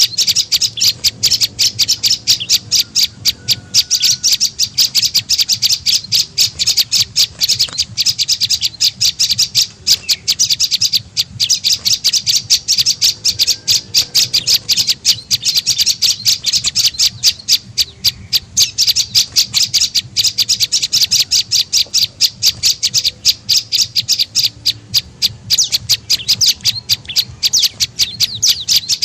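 Prenjak lumut bird calling: a rapid, unbroken string of sharp, high chirps, several a second, played as a lure call to attract the bird.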